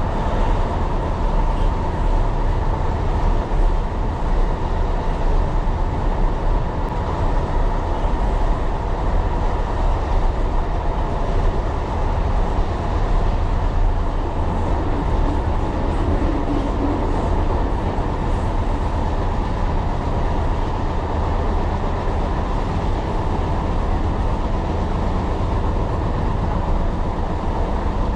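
Tyne & Wear Metrocar running along the line, heard from inside the train: a steady low rumble of wheels on rail with a constant whine above it.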